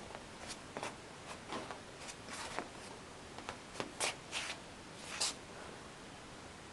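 Faint, irregular rustles and light clicks, about a dozen scattered over several seconds, from handling and movement close to the microphone.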